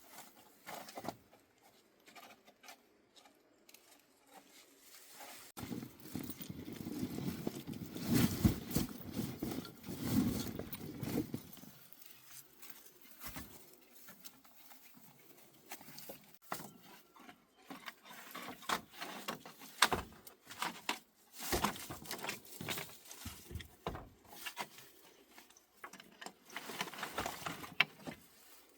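Rustling with scattered knocks and clicks, like materials being handled by hand, and a denser, louder stretch of rustling from about six to twelve seconds in.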